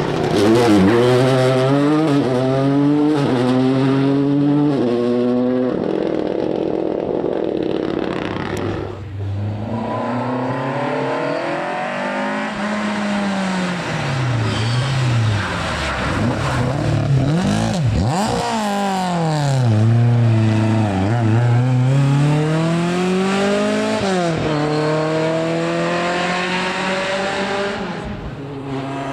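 Rally car engine revving hard and shifting up through several gears, then lifting off and slowing before accelerating again, passing close by with tyre noise. Another hard climb in revs is cut off sharply near the end.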